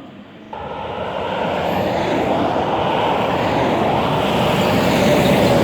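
A road vehicle approaching: a steady rush of tyre and engine noise that begins abruptly about half a second in and builds to its loudest near the end.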